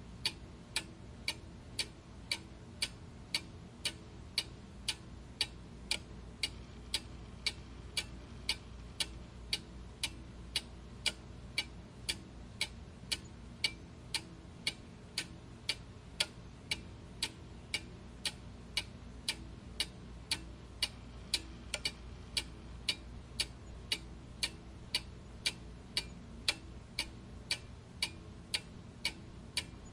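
Clock ticking steadily, with sharp even ticks about twice a second over a faint low background hum.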